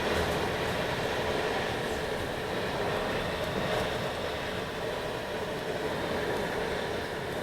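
Hurricane-force wind blowing as a steady, dense rush with a faint howl running through it.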